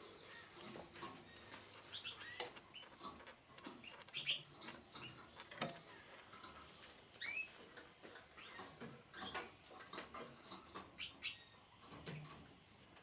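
Red melanin canary giving short, scattered chirps and calls, some sliding quickly in pitch, among frequent small clicks and taps.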